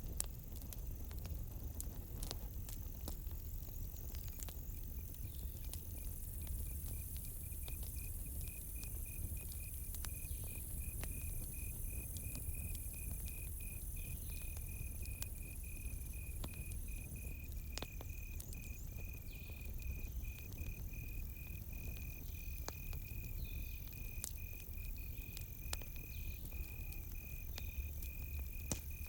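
Crickets chirping in a fast, steady pulsing trill that comes in about five seconds in, over a campfire crackling with scattered sharp pops and a low steady rumble.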